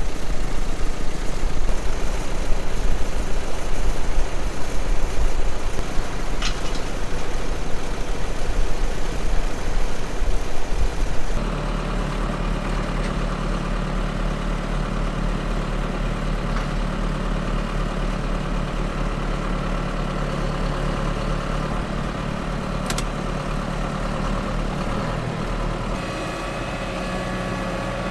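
John Deere 6430 tractor's diesel engine running: rough and uneven for the first eleven seconds or so, then a steadier, even drone for the rest.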